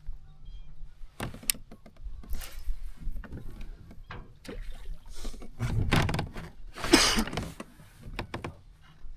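Handling noise aboard a fishing kayak: scattered light knocks and clicks against the hull and gear, with two louder swishing sounds of water about six and seven seconds in.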